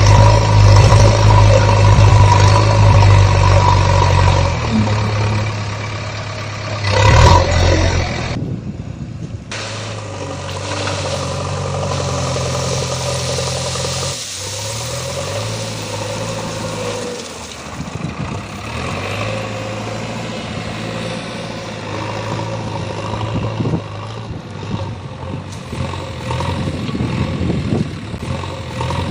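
Engine sound of heavy machinery idling and revving, changing pitch several times, with a short loud burst about seven seconds in and an abrupt cut a little later.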